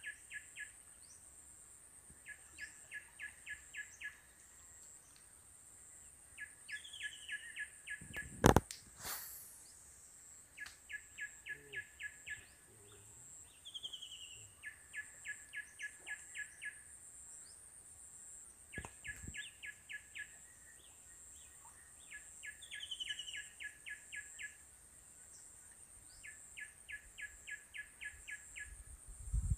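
A bird calls repeatedly: bursts of quick, evenly spaced chirped notes, about seven a second for a second or so, come every couple of seconds, with short falling whistles in between and a steady faint high whine behind. A single sharp click stands out about eight and a half seconds in.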